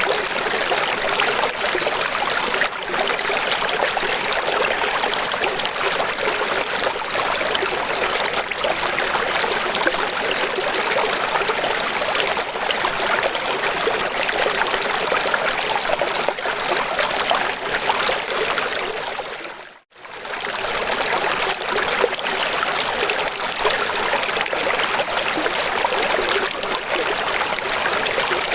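Steady rush of running water, a stream or waterfall, with no pauses except one brief dip where it fades nearly to silence and swells back in about two-thirds of the way through, a loop join.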